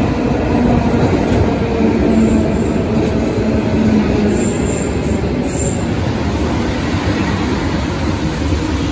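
Graffiti-covered electric multiple-unit passenger train running into an underground station along the platform: a loud, steady rumble of wheels on rail with a humming tone in the first few seconds and brief high wheel squeals about halfway through.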